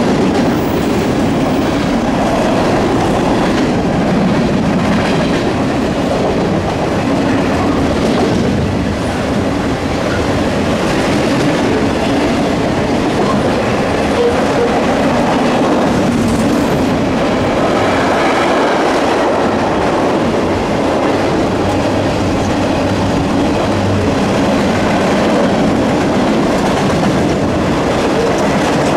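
Freight cars of a long mixed freight train rolling past: a steady, loud rumble of steel wheels on rail, with continual clickety-clack as the wheels pass over the track.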